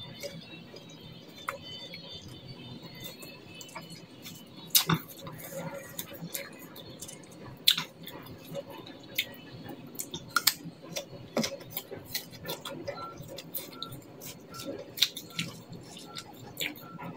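Eating sounds: crisp crunches and chewing of raw apple and green pear slices, with the fruit scraping and tapping in a stone mortar of chili sambal. The louder crunches come about five seconds in, near eight seconds and around ten to eleven seconds.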